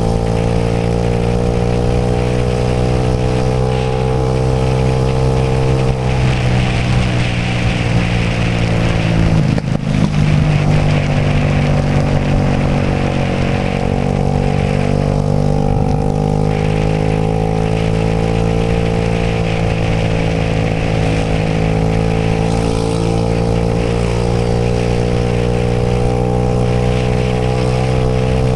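Suzuki Burgman 125 scooter's single-cylinder engine running steadily on the move. Its pitch sags a little about a third of the way in, with a brief rough jolt about ten seconds in, then climbs back.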